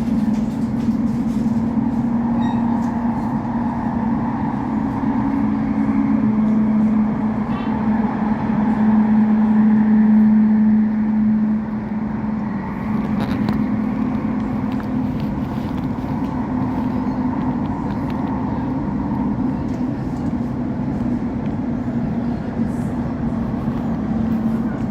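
Cabin noise of an Elizabeth line Class 345 electric train running between stations: steady rumble with a low electric hum, which swells about ten seconds in and drops back a little at about eleven and a half seconds.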